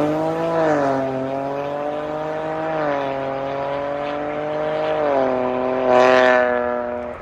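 Ford Focus MK4 1.5 EcoBoost three-cylinder turbo engine heard through an aftermarket valved catback exhaust. Its note falls about half a second in and holds fairly steady, then rises a little and swells louder about six seconds in.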